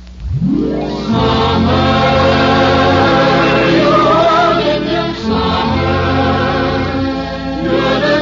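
A choir singing with orchestral accompaniment. It swells in over the first second, then holds full, sustained chords with a melody moving above them.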